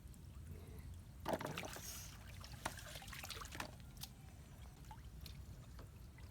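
Faint water splashing and trickling from water being stirred around a small boat or wading, with a louder splash a little over a second in and a few light knocks after it.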